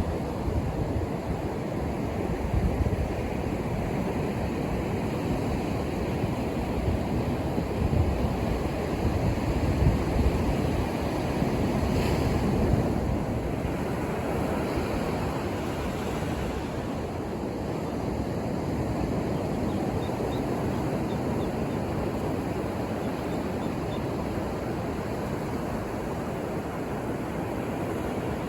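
Ocean surf breaking and washing up the shore in a continuous rushing wash, deepest in the low end, growing louder for a few seconds around the middle and then easing back.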